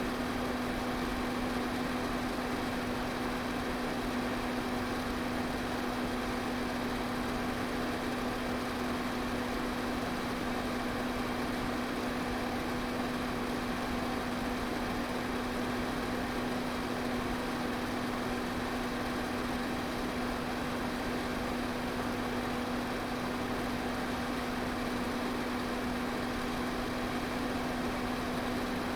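Electric pedestal fan running steadily: an even rush of air with a constant hum from the motor.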